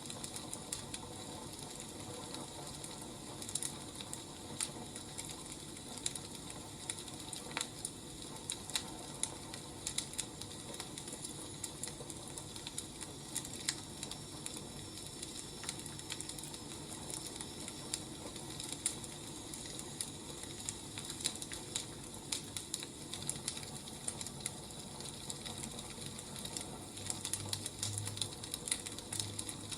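Wood fire crackling steadily, with irregular sharp pops and snaps over a soft hiss. A few low thumps near the end.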